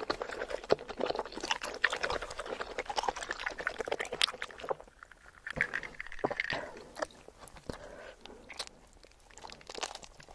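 Close-miked chewing of saucy seafood: dense, crackly mouth clicks and crunches for the first four seconds or so, then quieter with only scattered clicks.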